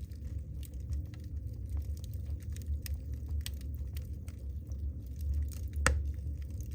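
Wood fire burning in a fireplace: a steady low rumble of flames with frequent crackles from the burning logs, and one louder pop near the end.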